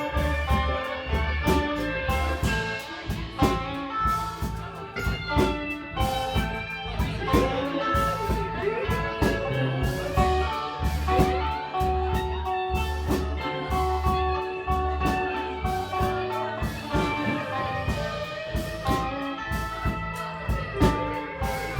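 Live rock band playing an instrumental passage with no vocals: electric guitar lines over bass guitar and a steady drum kit beat, in a bluesy style.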